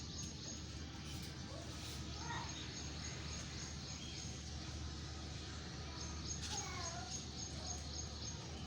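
Birds chirping over a steady background hiss, with clearer short calls about two seconds in and again around seven seconds in.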